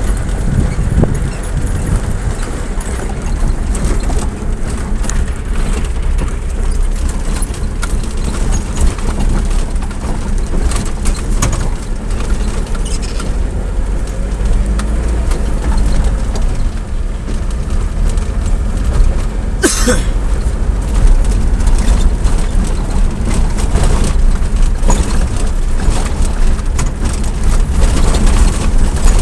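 Steady running noise of a vehicle on the move, with a heavy low rumble and scattered light rattling. A short, sharp noise cuts through about twenty seconds in.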